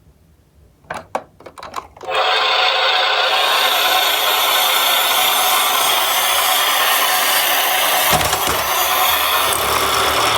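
A few light clicks, then about two seconds in a loud steady mechanical whirring starts and holds, from a toy truck running.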